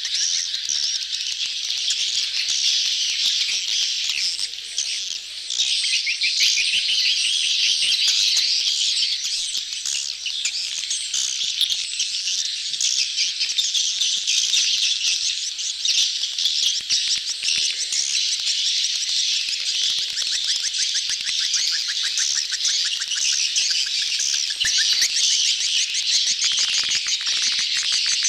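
A dense crowd of swiftlets chirping and twittering without pause, a swiftlet lure call of a colony in courtship, played to draw swiftlets into a nesting house.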